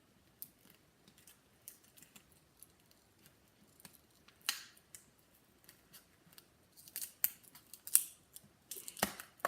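Hands tying off an inflated long twisting balloon: short squeaks and rubs of stretched latex, sparse at first, with one sharp squeak about halfway and a busy flurry of them near the end.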